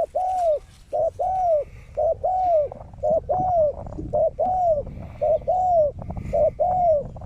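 Spotted dove cooing over and over in loud, mellow phrases, each a short coo followed by a longer note that rises and falls, about once a second.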